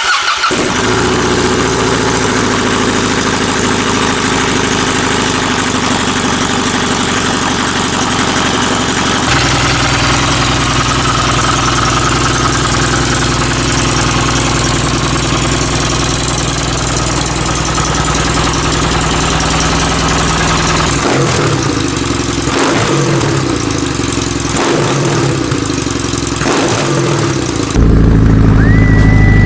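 Kawasaki W800 parallel-twin engine running through an aftermarket POSH muffler made for the W650, a steady, loud exhaust note. Its sound turns deeper and heavier about nine seconds in, dips briefly several times later on, and grows louder near the end.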